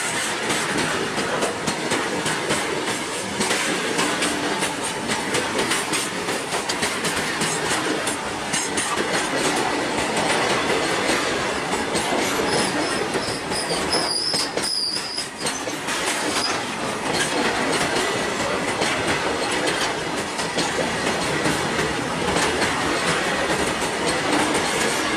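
Loaded freight wagons rolling past at speed: steady noise of steel wheels on the rails with rapid clickety-clack over the rail joints and a thin wheel squeal throughout. A higher-pitched squeal rises out of it for a few seconds around the middle.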